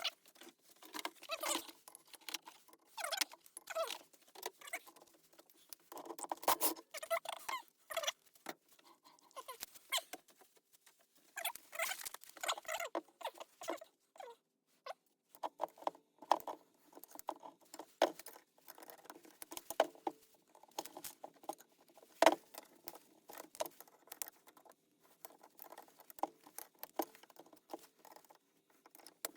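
Irregular light scraping, rustling and clicking, the close handling noise of hands and tools at work, with a sharper click about 22 seconds in.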